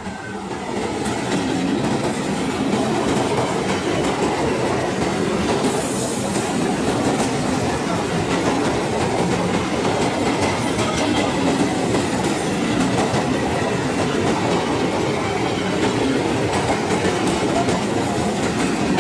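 Electric multiple unit (EMU) local train passing close by at speed, its wheels clattering over the rail joints. The sound swells over the first two seconds as the front car arrives, then holds loud and steady as the coaches roll past.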